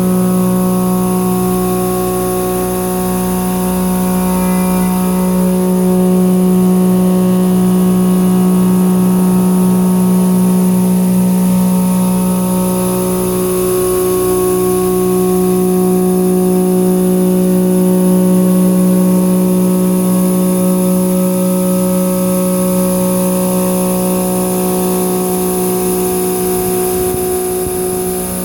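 Three-flute indexable shoulder mill with carbide inserts cutting carbon steel on a CNC mill: a steady, unbroken pitched cutting hum with several overtones, holding an even level.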